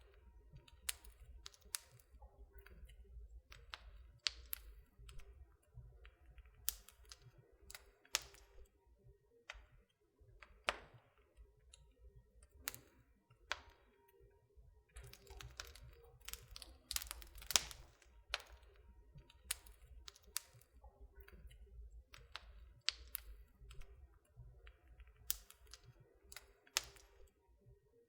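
Wood fire in a fireplace crackling: irregular sharp snaps and pops, a few loud ones among many faint ticks, over a low steady rumble.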